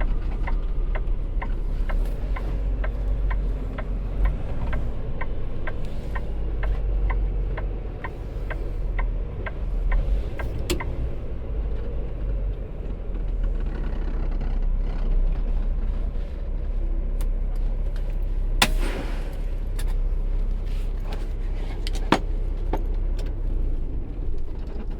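Semi truck's diesel engine running steadily, heard inside the cab, with a turn-signal indicator clicking about two and a half times a second for the first ten seconds or so. Near the end there is a short burst of noise and then a single sharp click.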